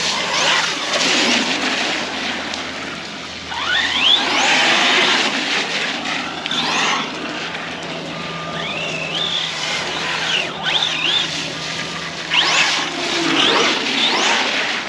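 Arrma Big Rock 6S electric RC monster truck driving on wet ground, its brushless motor whining up in pitch several times as it accelerates, over a steady hiss of wet tyres and spray.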